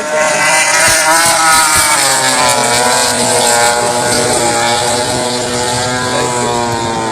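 MotoGP racing motorcycle engines at high revs passing the track, loud, their pitch sliding down as they go by.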